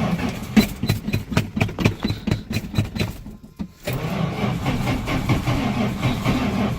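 Dodge Slant Six engine cranking on its starter in deep cold without catching. There are about five even compression beats a second, a brief stop a little past the three-second mark, then cranking again.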